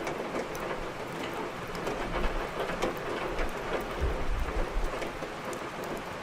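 Steady heavy rain with scattered sharp crackles of burning firewood in a fireplace. A deep low rumble swells from about two seconds in and fades about a second before the end.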